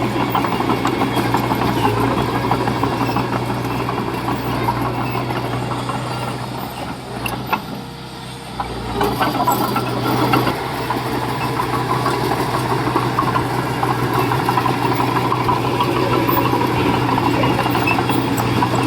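Diesel engine of a mini Komatsu bulldozer running steadily under work. It eases off and drops in level for about two seconds near the middle, then picks back up.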